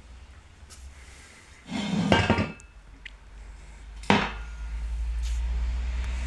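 Metal parts clanking: a short rattling clatter about two seconds in and a single sharp knock about two seconds later, followed by a steady low hum.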